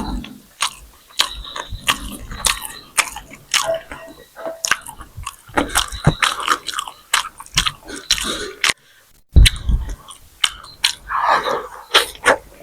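A person biting and chewing food close to the microphone: an irregular run of crisp, wet mouth clicks and crunches, with a short pause about nine seconds in before chewing starts again.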